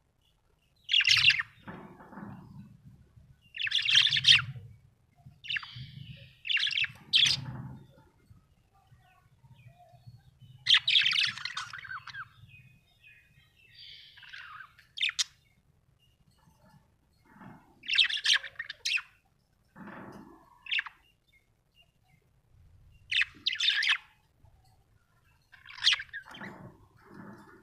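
Small parrot chirping in short bursts of one or two calls every few seconds, with quiet gaps between.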